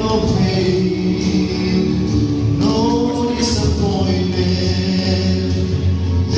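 Gospel vocal quartet singing held, harmonised phrases over a steady instrumental bass line.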